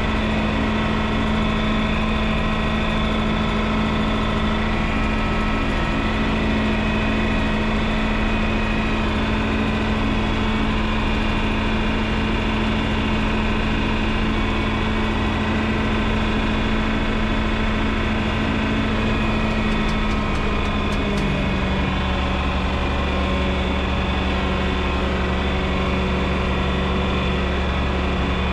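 John Deere 6030's six-cylinder diesel engine running steadily while it pulls a moldboard plow. About three quarters of the way through, its note steps down a little and turns deeper.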